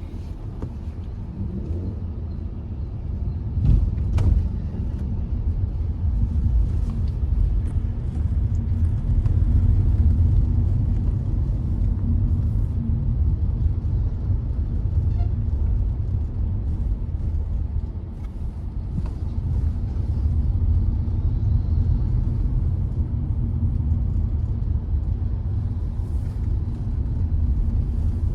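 Hyundai i20 with its 1.2-litre engine driving along: a steady low rumble of engine and road noise, with two sharp knocks about four seconds in.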